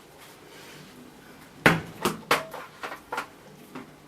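A series of sharp plastic clicks and knocks, about six in the last two and a half seconds, the first the loudest, from handling a vacuum cleaner floorhead with the motor off.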